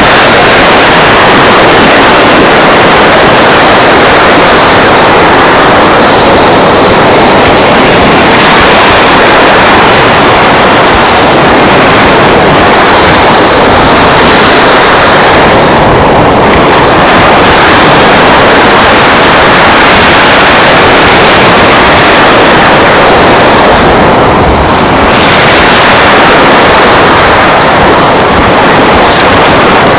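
Steady, loud rushing of surf and wind along a sandy beach, with no breaks or distinct events.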